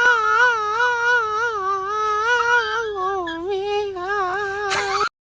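A cat's long, drawn-out yowl with a wavering pitch, held without a break and cut off abruptly near the end.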